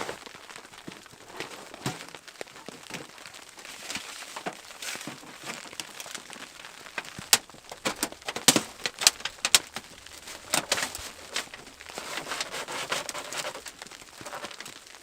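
Rustling and crinkling from gear being handled, with a run of sharp clicks and knocks about seven to eleven seconds in.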